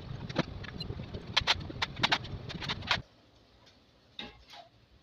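A series of sharp clicks and knocks over a low rumble. The rumble cuts off suddenly about three seconds in, and two fainter knocks follow.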